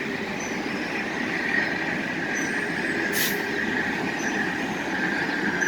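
Amtrak Cascades Talgo passenger cars rolling past as the train departs: a steady rumble of wheels on rail with a high, steady wheel squeal, and a brief hiss about three seconds in.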